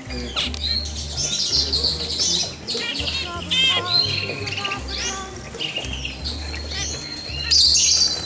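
Many small caged songbirds chirping, trilling and calling over one another, with one long steady whistled note near the end, over background music.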